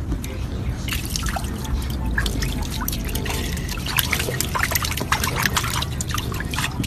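Water dripping and splashing: many small, irregular clicks over a low rumble.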